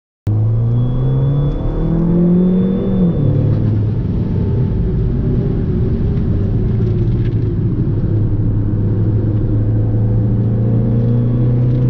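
Fiat 500 Abarth's turbocharged four-cylinder engine cuts in abruptly and pulls with its note rising for about three seconds. The note then drops at an upshift and runs at a steady pitch under light load.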